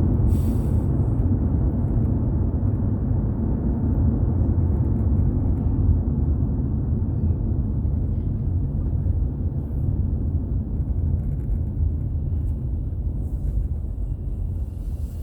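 A car driving on the road: a steady low rumble of tyre and engine noise that grows gradually quieter toward the end.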